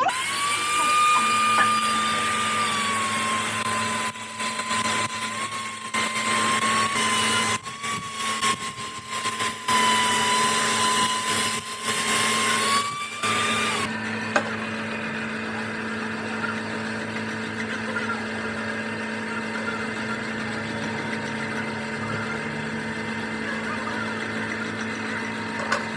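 An electric power tool running with a high motor whine and a hiss, its pitch sagging slightly and dropping out briefly several times. About halfway through the whine stops, leaving a steadier, quieter machine hum.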